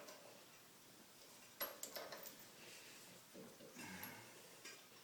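Near silence with a few faint clicks of hand tools on the wheel hub, about one and a half to two seconds in, as a lug nut is worked onto a new wheel stud.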